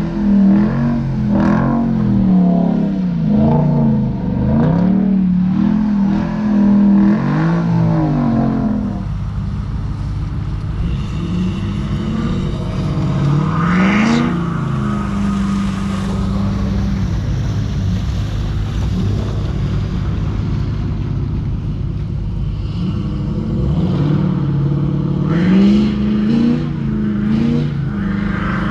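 Tuned, emissions-deleted 6.7 L Power Stroke V8 turbo-diesel of a 2017 Ford Super Duty revving up and falling back again and again while spinning donuts in snow, with a steadier stretch in the middle broken by one more rev.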